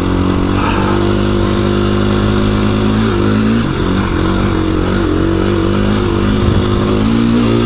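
KTM 350 EXC-F's single-cylinder four-stroke engine running at a steady low speed, with a brief unsteadiness in pitch about three to four seconds in.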